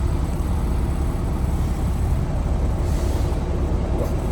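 Semi truck's diesel engine running steadily at idle, a constant low rumble, with a short hiss about three seconds in.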